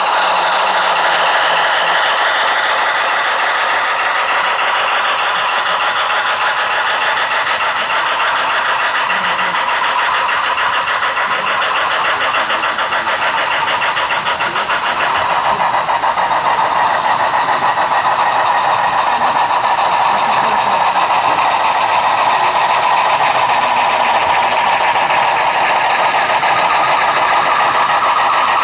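HO-scale model train running on the layout: a steady, dense mechanical running sound that grows a little louder about halfway through.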